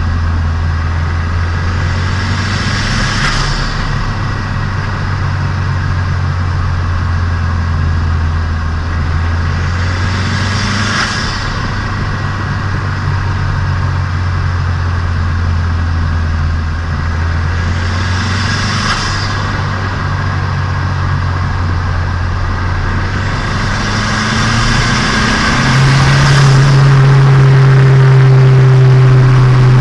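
Turbocharged Nissan Micra engine running at a steady cruise while being broken in, with a rushing whoosh that swells and fades about every eight seconds. Near the end the engine note rises and grows louder as it takes more revs.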